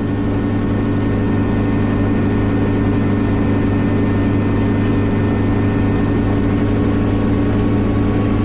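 Steady drone of a small training helicopter's engine and rotors, heard from inside the cockpit in flight.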